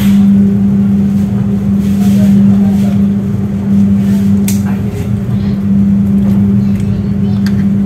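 Running noise inside a passenger train carriage: a loud, steady hum over a low rumble, with a couple of short clicks about halfway through and near the end.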